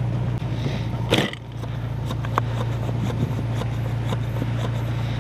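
Jeep Wrangler engine idling steadily. About a second in, a door is slammed shut with one loud bang, and faint crunching footsteps in snow follow.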